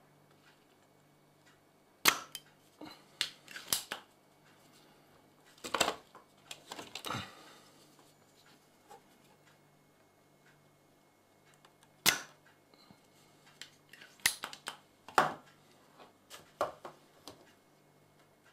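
Scattered sharp clicks, taps and clatters of small tools and parts being handled on a repair bench, at irregular intervals, the loudest about two seconds in and again about twelve seconds in.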